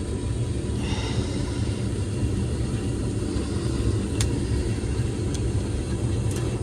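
2021 Carrier gas furnace running with a steady low rumble and a few light clicks; the technician judges the unit done and not safe to run.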